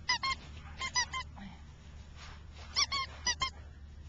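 French Bulldog puppies squealing: short, high squeaks in quick clusters, two right at the start, three about a second in and four near three seconds.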